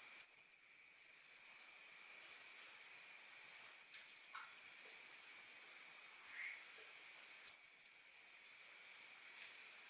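Orange-headed thrush (anis merah) giving three thin, high, falling whistle calls, one about every three and a half seconds, over a fainter steady high whine. These are the 'ngecis' calls used to call in a male.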